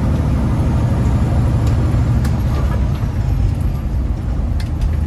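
Heavy diesel truck engine running under way with a deep, steady drone, heard from inside the cab, with a few faint clicks and rattles.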